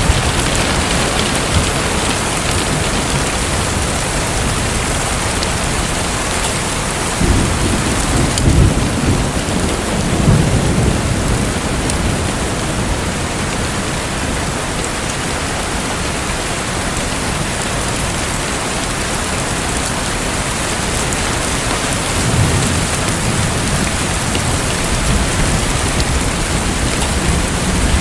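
Steady heavy rain, with low rumbles of distant thunder twice: about a quarter of the way in and again near the end.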